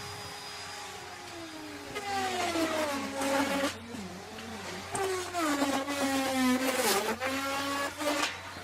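Electric wood router running, its motor whine steady at first, then sagging in pitch with a louder rough cutting noise as the bit bites into the wood, twice for a second or two each, recovering in between.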